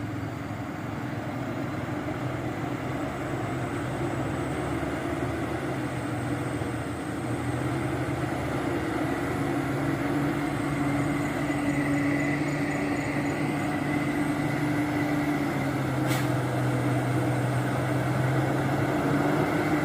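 Diesel engine of a Hino 500 truck pulling steadily in low gear through soft ground, a constant labouring drone that grows slowly louder as it comes closer.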